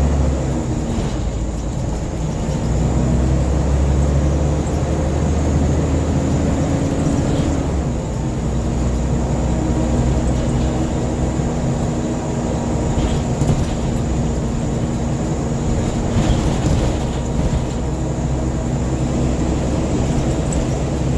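Scania N94UB single-deck bus heard from inside while it drives, its diesel engine running steadily with the engine note shifting about eight seconds in, over road noise. A few short knocks and rattles come about two-thirds of the way through.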